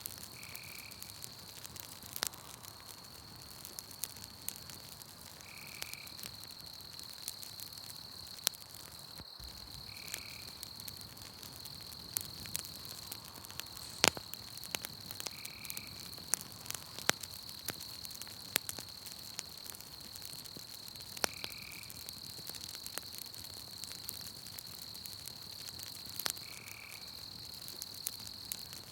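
Campfire crackling with scattered sharp pops, the loudest about halfway through, over a steady high-pitched night-insect trill. A short call repeats about every five seconds.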